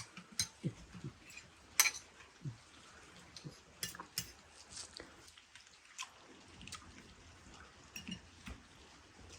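Irregular light clicks and knocks of cooking utensils and dishes being handled during food preparation, the loudest about two seconds in.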